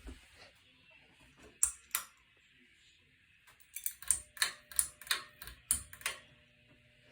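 Sharp clicks, two and then a quick run of about eight, from a ceiling fan's switch being worked. A faint steady hum comes up about four seconds in.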